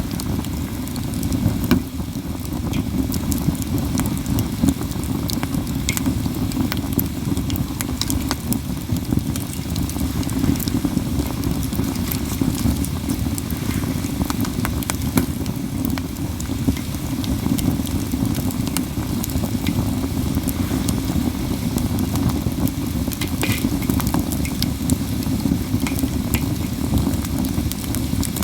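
Wood fire of katsura logs crackling steadily, with many sharp pops scattered through, over a steady low rumble.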